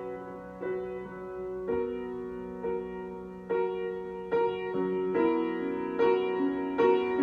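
Solo piano improvisation: unhurried sustained chords, a new one struck about once a second, growing louder toward the end.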